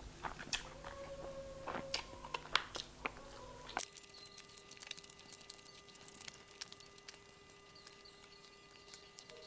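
Close-up mouth sounds of a person eating chicken biryani by hand: chewing and wet lip smacks, heard as many short clicks. They are busiest in the first few seconds and fainter after the background hum drops out abruptly about four seconds in.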